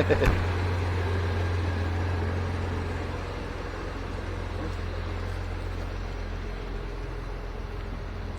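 Car engine running with a steady low hum, easing slightly quieter about three seconds in.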